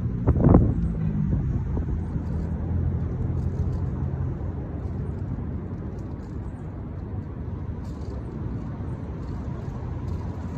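Low engine rumble with a steady hum that fades out after about four seconds, over a continuous low outdoor rumble; a brief sharp sound about half a second in.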